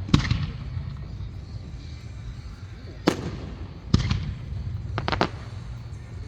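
Aerial fireworks shells bursting overhead: five sharp booms, one just after the start, one about 3 s in, one about 4 s in, and a quick pair about 5 s in, each trailing off briefly.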